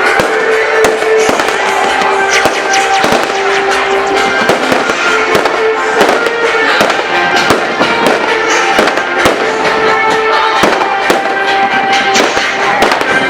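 Fireworks going off in a continuous, irregular string of sharp crackles and bangs, over music with long held notes.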